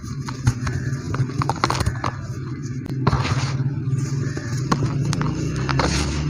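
Dry white cement being crumbled and scraped, with many sharp clicks and crackles over a steady low hum.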